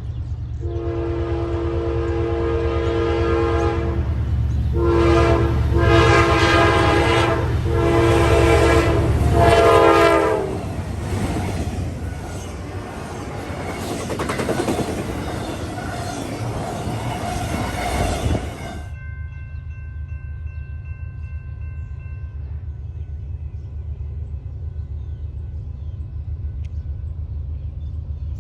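Diesel freight locomotive's air horn sounding several long blasts over the low rumble of the engine. This is followed by the rushing, clattering noise of the train rolling past, which cuts off abruptly after a while. A fainter steady horn-like chord and the rumble carry on afterwards.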